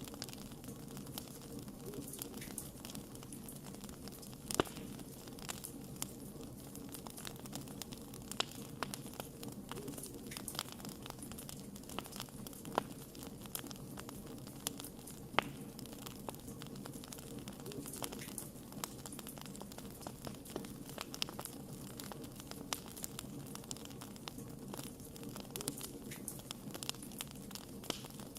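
Wood campfire crackling, with many small sharp pops spread throughout and a louder pop about four and a half seconds in, over a steady low rumble.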